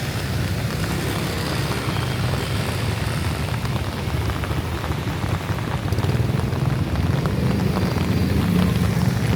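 Heavy rain falling, a dense patter of drops on wet surfaces, over a low rumble that grows louder in the second half.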